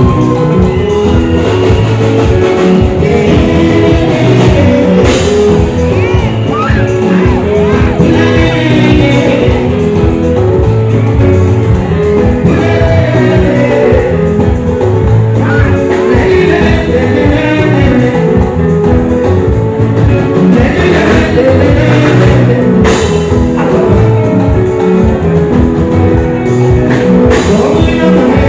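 Live band music with a lead singer over a steady drum beat and sustained instrument lines, played loud.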